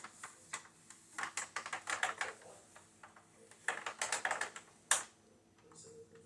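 Quick clusters of light, sharp clicks and rattles, like small hard plastic parts being handled and knocked together: two bursts of a second or so each, then one louder click near the end.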